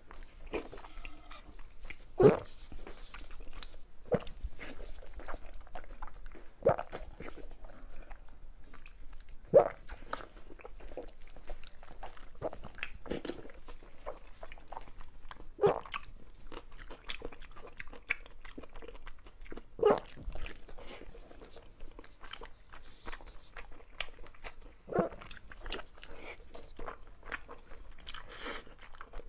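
Close-up wet chewing and biting of fatty pork belly, with small mouth clicks throughout and a louder sharp click every few seconds.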